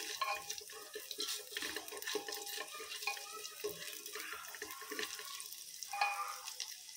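Whole spices, cashews and green chillies sizzling in hot ghee in a pressure cooker, stirred with a slotted spatula that scrapes and taps against the pot, an irregular crackling hiss.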